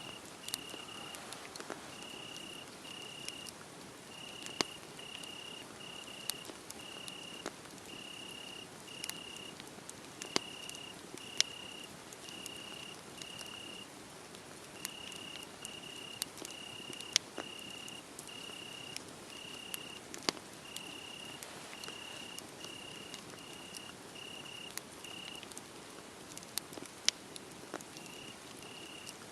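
A cricket chirping steadily at one high pitch, a little more than one chirp a second, falling silent for a few seconds near the end. Under it a wood fire crackles, with scattered sharp pops that are the loudest sounds.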